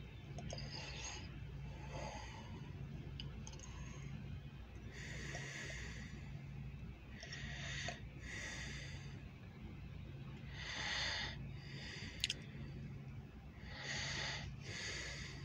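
A person's breaths close to the microphone, coming irregularly every second or few, over a steady low hum. A single sharp click about twelve seconds in.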